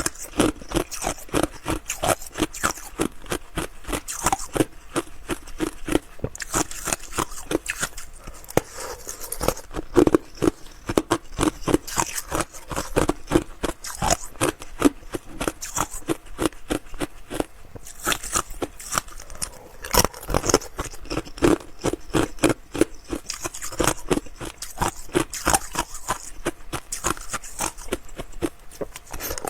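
Close-miked chewing of ice: a steady run of crisp crunches and cracks, several a second, with no pause.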